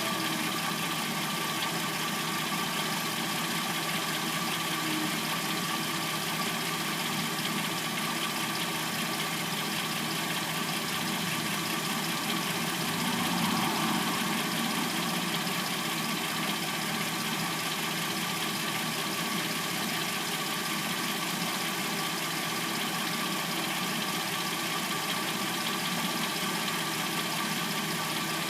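Hyundai Sonata replacement engine idling steadily after warming up. When warm it makes a clackety noise that the owner assumes comes from the timing chain.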